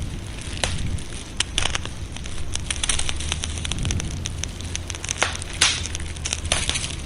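Wood fire crackling, with frequent sharp pops and snaps over a steady low rumble; one loud pop about five and a half seconds in.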